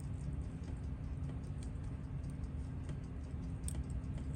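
Faint, irregular light clicks of small metal tools against watch movement parts, with one sharper click about three and a half seconds in, over a steady low hum.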